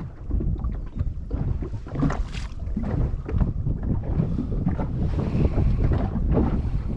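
Wind buffeting the microphone on a small boat at sea, a dense low rumble with irregular gusts and small knocks, with water moving around the hull.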